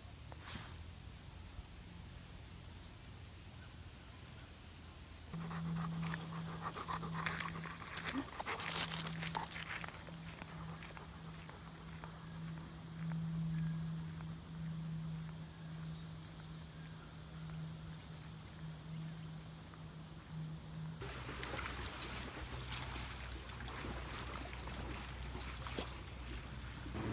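A dog's sounds over a steady low hum and a thin high whine, with scattered small clicks and rustles. The background changes abruptly about five seconds in and again near the end.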